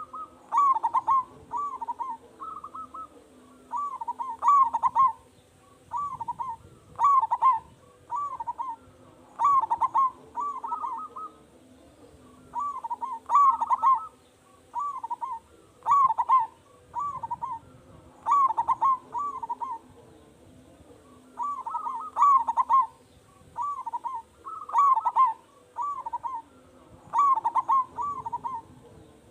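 Zebra dove (perkutut) cooing again and again. Each short phrase is a run of quick notes near the same pitch, and a new phrase comes every second or two. This is a loud, persistently singing bird of the kind used as a lure song to set other perkutut singing.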